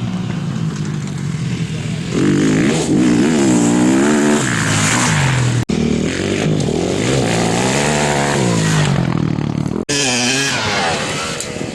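Off-road motorcycle engines revving up and down as bikes ride past, the pitch rising and falling repeatedly. The sound drops out for an instant twice, at cuts between clips.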